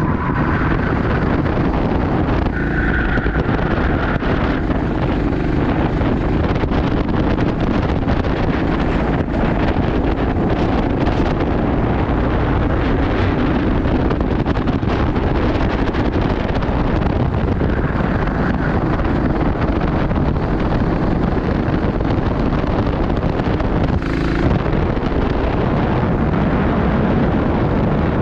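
Steady wind rumble buffeting the microphone, with a brief sharper sound about 24 seconds in.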